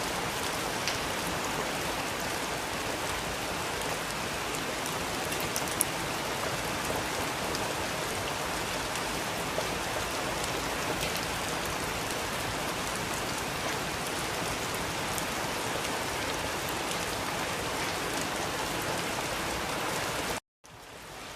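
Steady rain falling on a surface, with an occasional sharper drip standing out. Near the end the rain cuts out abruptly for a moment and then fades back in.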